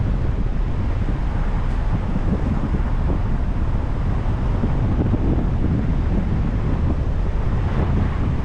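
Steady wind buffeting the microphone of a camera on a moving car, mixed with a low road rumble, with no breaks or changes.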